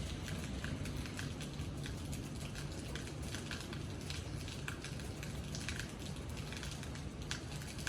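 Steady rain falling, with single drops ticking irregularly on a hard surface close by.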